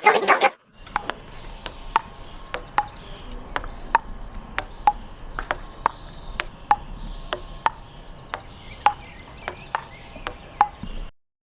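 A series of sharp, short clicks, loosely in pairs at about two a second, each with a brief ringing ping.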